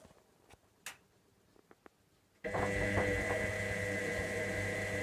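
Electra AWF683 front-loading washing machine during a boil wash: the drum motor is stopped in a pause between tumbles, with a few faint clicks, then about two and a half seconds in the motor starts again abruptly and runs with a steady hum and whine.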